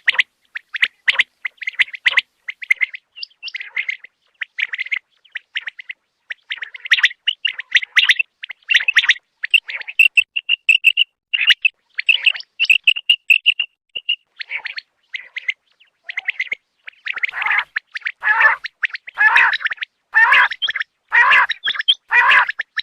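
Common quail calling: a long run of short, repeated chirping notes, with a fast series of higher notes about ten seconds in and fuller, louder calls near the end.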